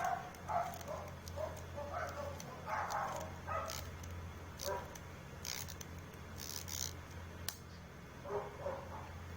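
Bolex D8L cine camera's clockwork spring motor being wound with its crank, giving a few sharp clicks and short scraping strokes, over a steady electrical hum.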